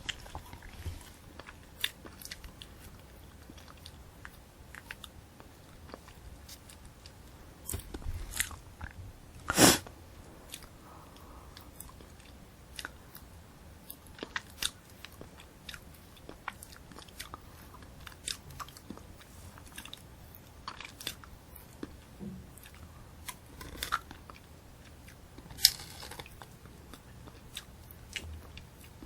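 Close-miked chewing and crunching of a candy apple, the hard red sugar shell cracking between the teeth along with the crisp apple flesh. Crunches come irregularly, with one loudest crunch about a third of the way in and another sharp one near the end.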